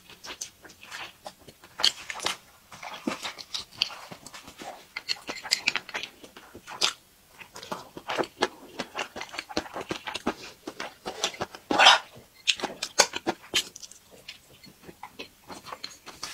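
Close-miked chewing of a pan-fried bun: a run of wet mouth clicks and smacks, with one louder burst about twelve seconds in.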